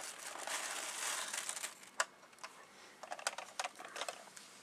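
Plastic packaging crinkling as a model train coach is unpacked, then several light clicks and taps of plastic being handled, the sharpest about two seconds in.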